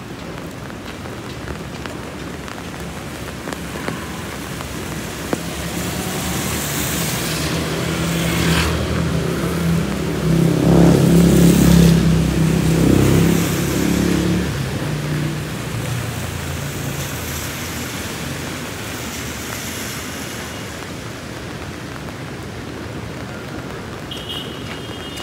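Steady rain falling, with a motor vehicle driving past: its engine and road noise build up, are loudest about halfway through, then fade away under the rain.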